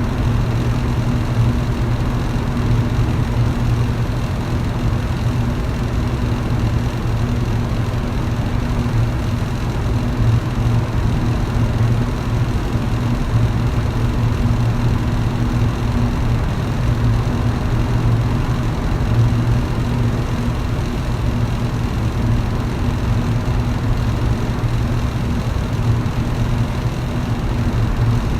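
Electric fan running steadily: a constant low motor hum over an even rush of air.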